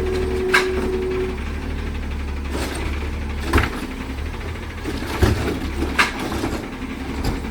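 Side-loader garbage truck running with a steady low engine rumble, broken by several sharp knocks and clangs, the loudest about three and a half seconds in and more around five and six seconds. A steady tone stops about a second in.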